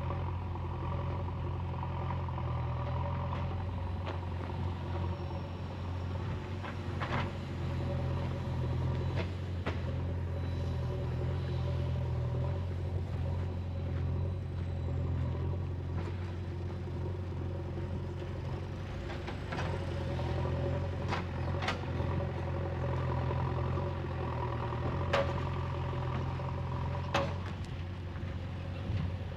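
Mahindra Bolero diesel engine idling steadily, heard from inside the cabin, with the pitch holding flat and no revving. Occasional sharp clicks and light knocks come through at irregular moments.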